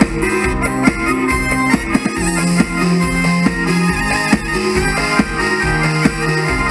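Mor lam sing band playing an instrumental passage: a reedy, droning melody of held chords over a steady beat of drums and bass.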